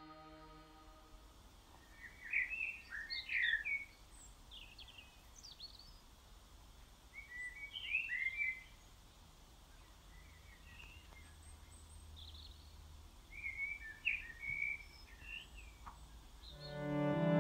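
Birdsong: three short bursts of quick chirping phrases a few seconds apart, over a faint steady low rumble of outdoor background.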